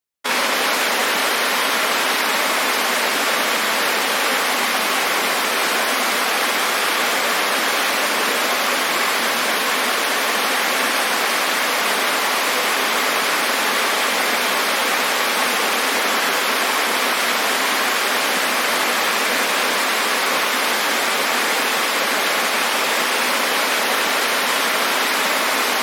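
Waterfall: the steady, even rush of falling water, cutting in abruptly at the start.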